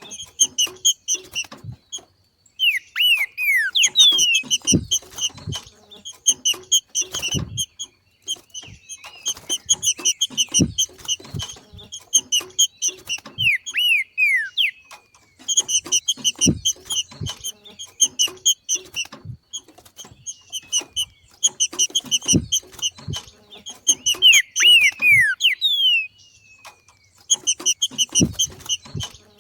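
Green-winged saltator (trinca-ferro) giving its 'macheado' call: bursts of rapid chattering notes a few seconds long with short pauses between, and now and then a quick run of falling whistled notes. This is the call trinca-ferros give when coming into breeding condition. Dull knocks sound among the calls.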